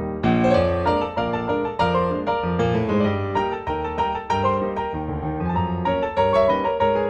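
Background piano music, a busy run of notes over low bass notes, getting fuller and brighter just after it begins.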